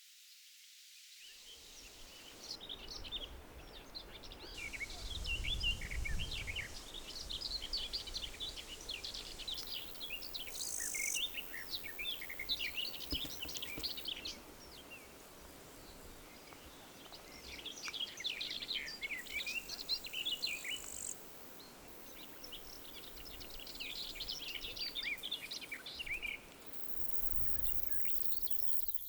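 Small birds chirping and twittering in busy flurries of short high calls over a steady outdoor hiss, with a couple of brief low rumbles.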